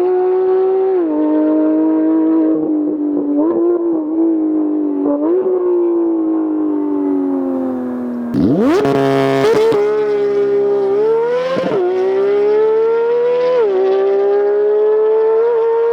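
Porsche 911 GT3 (991.1) 3.8-litre naturally aspirated flat-six at high revs. Its exhaust note falls and rises in pitch in steps and slow glides. About eight and a half seconds in, the pitch sweeps sharply up with a brief loud burst of noise.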